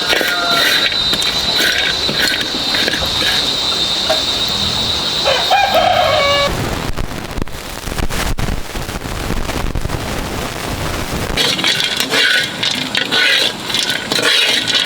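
A rooster crows briefly about five seconds in, over a steady high-pitched whine and repeated scraping clicks; after it comes an even rushing noise, then a run of crackly clicks near the end.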